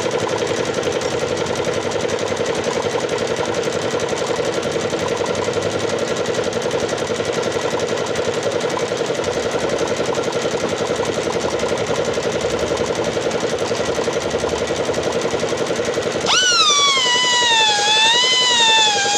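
Pneumatic air grinder running steadily with a fast, even rattling buzz. About three seconds before the end, music with a wavering, gliding lead tone comes in.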